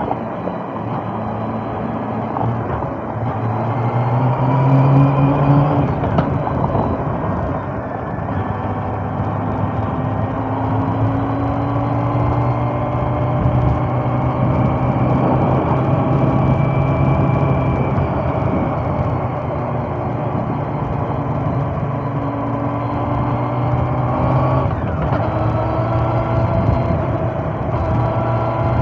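Honda CB400 Super Four Revo's inline-four engine running on the move, its note climbing under throttle a few seconds in and again near the end.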